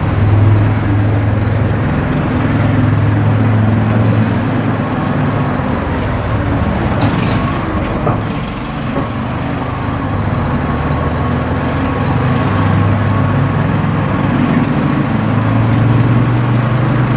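ATV engine running while the vehicle is ridden along a trail. Its low drone swells and eases several times as the throttle changes, over a steady rumble of the ride.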